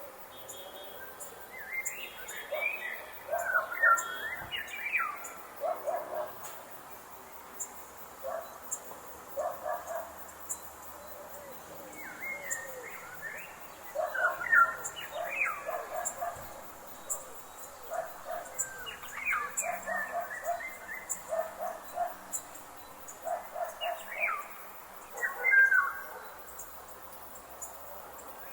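Several birds chirping and calling in repeated phrases every few seconds: quick sweeping notes mixed with clusters of short lower notes, over a faint steady high hiss.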